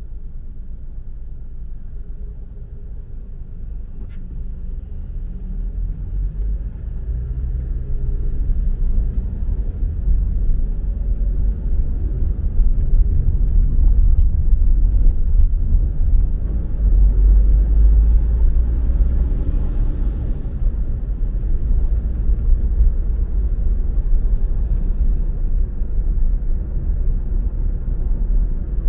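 Low rumble of a car driving on the road, engine and tyre noise, growing louder over the first ten seconds or so and then holding steady.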